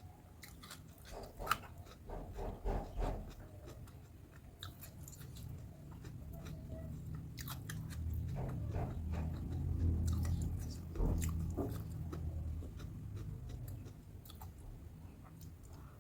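Close-up mouth sounds of a person eating crispy battered fried tempeh and raw cucumber: crunchy bites and chewing, with sharp crackles scattered through the chewing.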